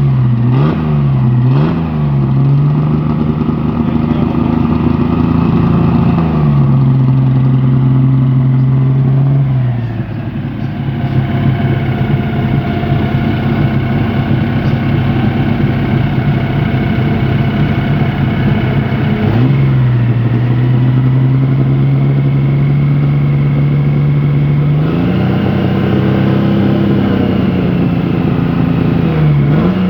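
Chevrolet Opala ex-Stock Car's 4.1-litre inline-six engine revved hard while stationary. It gives quick blips at the start and again near the end, and in between holds high revs for several seconds at a time. About ten seconds in it drops to a lower, rougher idle.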